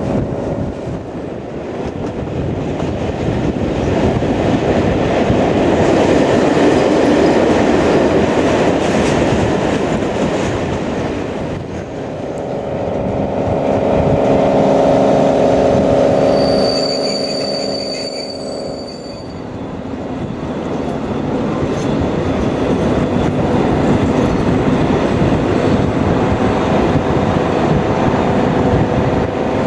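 Passenger train running along the track, heard from an open carriage window: a steady rush and rumble of wheels on rail, swelling and easing. A thin, high squeal is heard for a couple of seconds a little past halfway.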